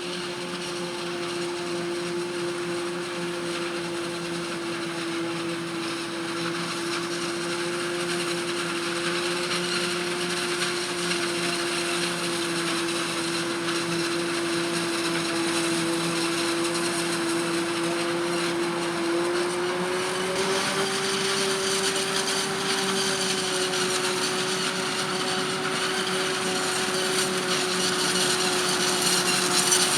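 Maize-harvest machinery running steadily with a high, even whine, slowly getting louder, its pitch stepping up slightly about two-thirds of the way through.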